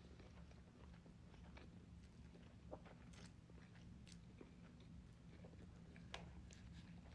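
Faint chewing of ramen noodles, with scattered soft clicks of mouth and fork over a low steady hum.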